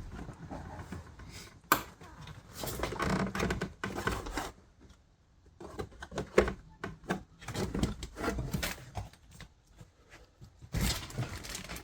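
Plastic interior trim being handled and worked loose under a car's dashboard: scattered clicks and knocks, with one sharp click about two seconds in.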